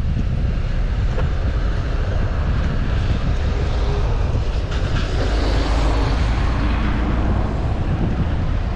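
Wind buffeting the microphone during a bicycle ride, a steady low rumble. About five seconds in, a broad rush of noise swells and fades as a vehicle passes.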